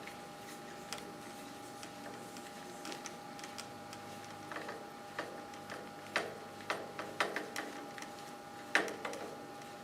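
Light clicks and taps of hands taking apart an engine air cleaner: wing nut, cover and air filter being handled, scattered irregular knocks mostly in the second half, over a faint steady hum.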